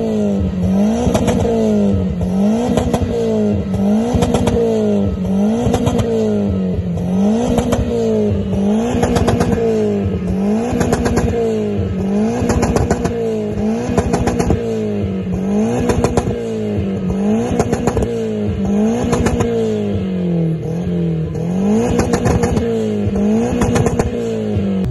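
A tuned car engine is revved again and again through its large single-tip exhaust. It rises and falls in quick, even blips, a little more than once a second.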